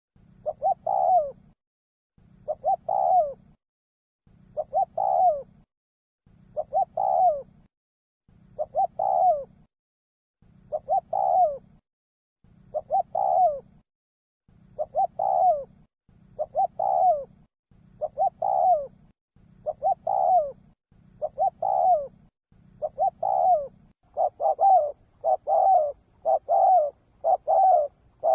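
Spotted dove cooing, the same phrase repeated about every two seconds; near the end the calls come shorter and faster, roughly one a second.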